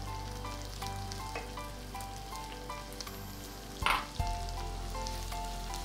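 Chopped onions sizzling as they fry in hot oil in a wok, with stirring, and a short louder burst of noise about four seconds in. Soft background music with a repeating melody runs underneath.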